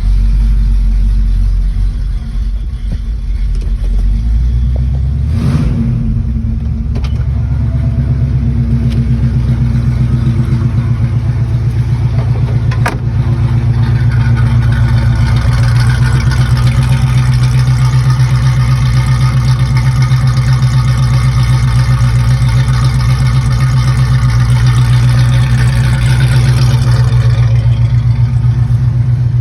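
Modified 400 V8 of a 1967 Pontiac Firebird running with a steady pulsing exhaust note. A brief rising sweep comes about five seconds in and a single sharp click near the middle, and the engine sounds fuller and brighter through most of the second half.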